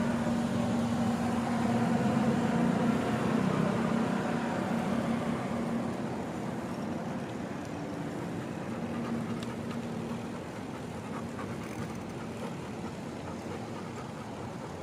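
A motor vehicle's engine humming close by, then fading away after about six seconds, over steady traffic and road noise.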